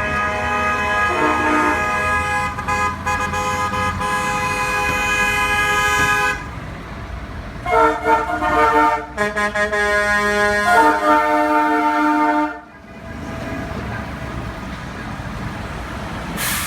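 Tow truck horns sounding, several at once in a chord: one long blast for about six seconds, then a run of shorter blasts, over the low running of truck engines.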